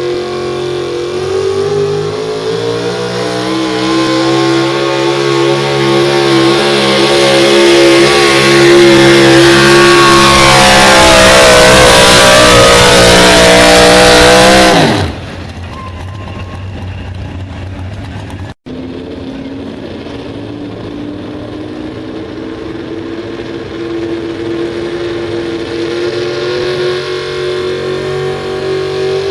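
A super stock 4x4 pulling truck's engine running flat out under load, growing steadily louder for about fifteen seconds, then cutting off the throttle with the pitch falling sharply. After that a pulling truck's engine runs steadily at a lower level and revs up near the end.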